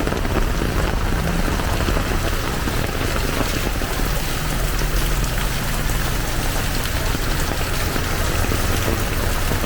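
Heavy downpour falling steadily, a dense even hiss of rain on the street, with a low rumble underneath.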